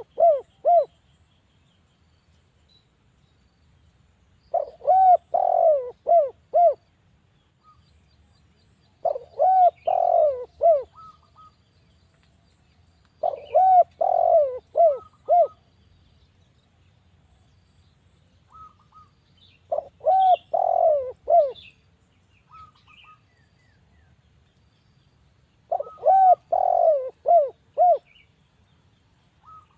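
Spotted dove (derkuku) cooing: a phrase of several quick coos, repeated about every four to five seconds. Faint chirps of other small birds come in about two-thirds of the way through.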